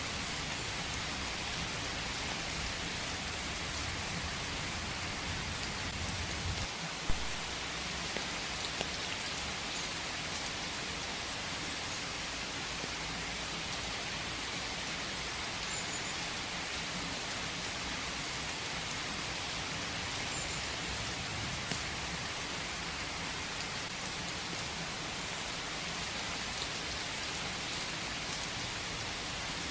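Steady rain falling in a forest, an even hiss with scattered drops. A low rumble underlies the first seven seconds and ends with a single sharp tap.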